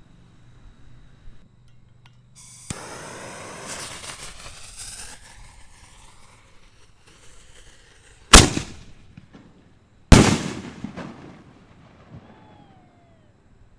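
Excalibur 4-inch aerial canister shell fireworks: a shell launches from its mortar tube with a sharp crack and a few seconds of rushing hiss as it climbs. Then come two loud booming reports about two seconds apart, each echoing away.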